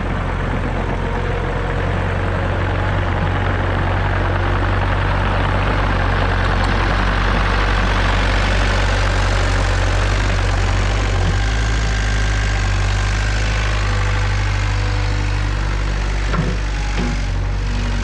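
Cat/Mitsubishi MM55SR mini excavator's diesel engine running steadily, with a few knocks near the end.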